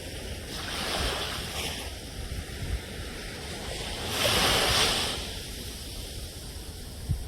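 Ocean surf: waves washing in and drawing back, with a small swell about a second in and a larger, louder wave breaking about four seconds in before receding.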